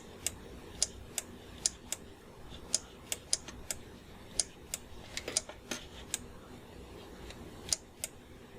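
Irregular, sharp clicks of a computer mouse, about twenty of them spread unevenly, over a faint steady room background.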